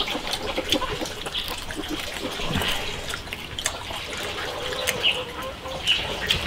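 People chewing and gnawing dry-fried beef ribs off the bone, with wet mouth clicks and smacks throughout. Chickens cluck a few times in the background.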